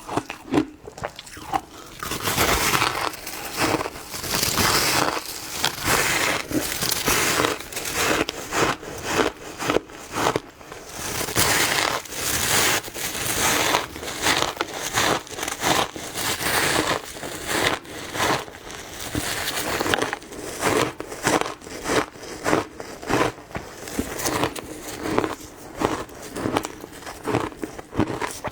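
Ice being bitten and crunched between the teeth, a fast, steady run of sharp crackling crunches with brief pauses between mouthfuls.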